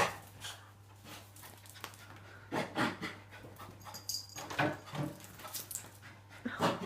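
A puppy panting hard in short, irregular puffs. A low steady hum runs underneath.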